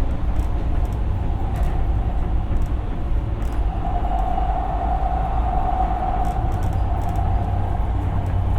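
Siemens P2000 light-rail car running at speed between stations, heard from inside the car: a steady low rumble of wheels on rail. A higher whine swells up about three and a half seconds in and fades away about seven seconds in.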